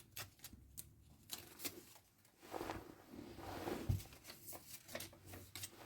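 Faint rustling of yarn and light clicks of a crochet hook as a magic ring is worked, with a soft thump about four seconds in.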